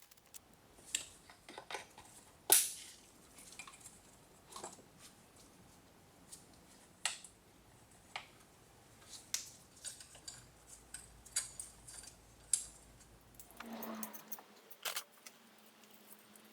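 Scattered metallic clicks and taps, one sharper than the rest about two and a half seconds in: hand tools and small engine parts being picked up and set down during engine work. A faint low hum starts near the end.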